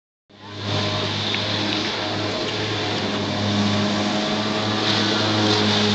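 Jet ski engine running with a steady drone, getting a little louder about three and a half seconds in.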